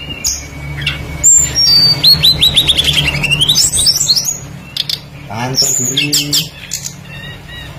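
Small songbird singing a varied string of high chirps and whistles, including a rapid run of notes that slides down and then back up about two seconds in.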